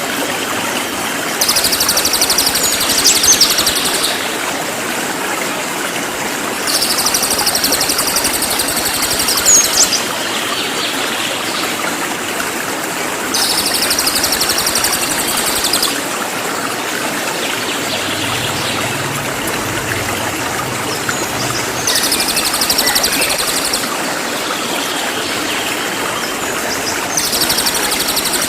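Cililin songbird song in a masteran recording: bursts of high, rapid, dense twittering a few seconds long, repeating about five times, over a steady sound of running water.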